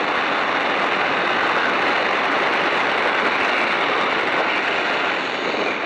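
Loud, steady rush of wind and engine noise in the open cockpit of a Great Lakes biplane in aerobatic flight.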